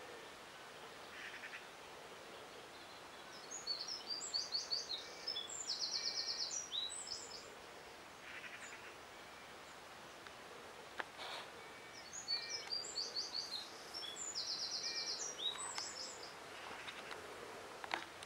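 A songbird singing twice, each song a run of quick, varied high notes with a rapid trill partway through, over a faint steady outdoor hiss.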